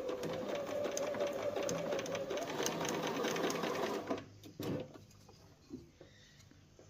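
Bernina 1030 sewing machine sewing a straight stitch in reverse at speed: a steady motor hum with fast, even needle strokes. It stops about four seconds in, followed shortly by a single knock.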